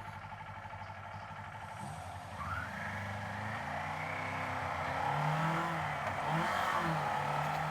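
Kawasaki Z500's parallel-twin engine under way, its revs picking up about two and a half seconds in, then rising and dropping a few times.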